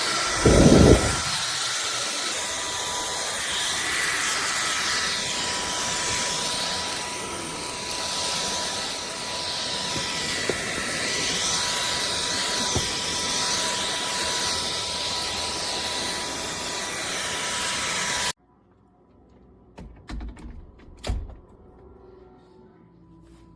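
Cordless stick vacuum cleaner running steadily with a thin whine over a rushing air noise, with a loud low thump about a second in. The motor noise cuts off suddenly about 18 seconds in, leaving a few faint knocks.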